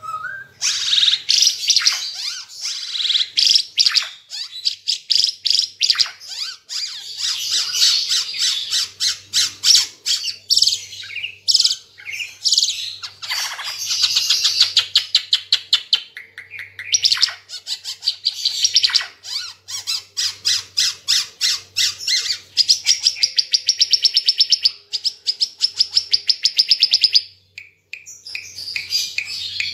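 Ara Timor songbird singing continuously and vigorously ('gacor'): a long, fast run of high chirps and rattling trills with only brief breaks, the last near the end.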